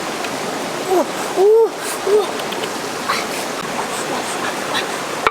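Steady rushing noise of running water, with a few short rising-then-falling pitched calls in the first half.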